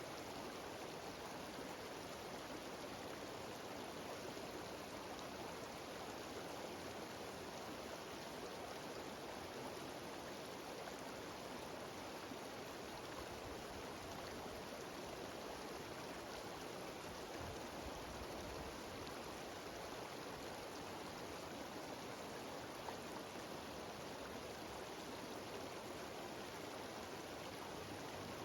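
Cascading mountain stream and small waterfalls rushing steadily over rocks, a constant even hiss of moving water.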